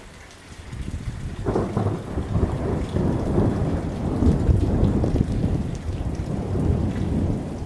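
Thunder rumbling in a rainstorm: quieter at first, then a long rolling rumble builds about a second and a half in and carries on, over the hiss of falling rain.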